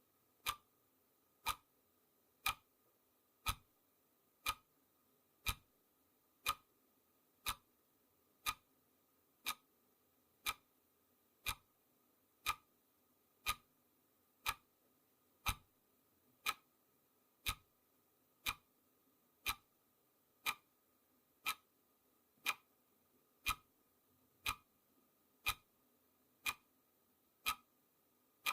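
Clock-tick sound effect of a countdown timer: one short, sharp tick each second, evenly spaced.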